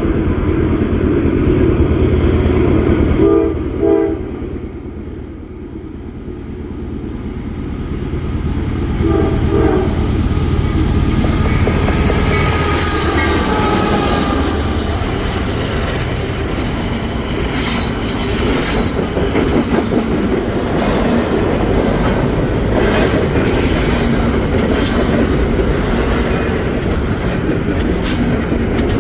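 A train passing: a heavy low rumble of the locomotives, two short pairs of horn toots at about three and nine seconds in, then the railcars rolling by with wheels clicking over rail joints and some squeal.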